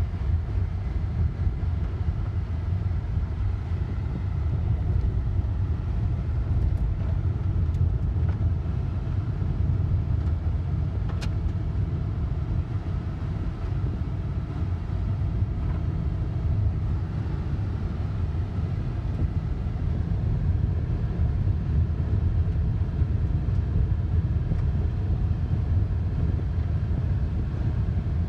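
Steady low rumble of a car driving on a gravel road, heard from inside the cabin: engine and tyre noise, with one sharp click about eleven seconds in.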